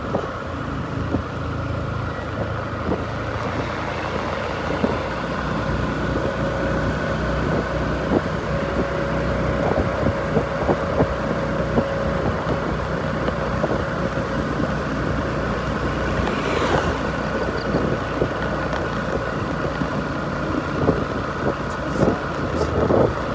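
A machine or engine running steadily, with a constant drone and many scattered clicks and knocks throughout.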